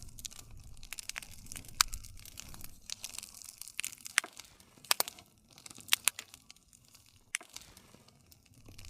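Campfire burning: irregular sharp pops and snaps of burning wood over a low, steady rumble of flame.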